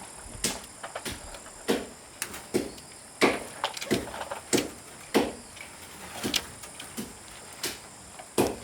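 Irregular series of sharp wooden knocks and strikes, roughly one or two a second, each with a short ring, typical of chopping or hammering wood during trellis building.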